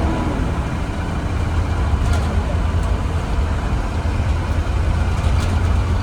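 A 2017 Blue Bird Vision school bus heard from inside, underway: a steady low engine and road rumble, with a few faint ticks or rattles.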